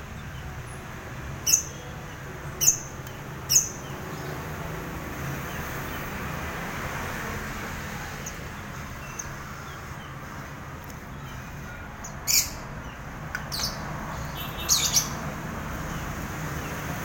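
Pet birds giving short, sharp, high-pitched chirps and squawks: three spaced calls about a second and a half in, then another cluster of three near the end, over a steady low background rumble.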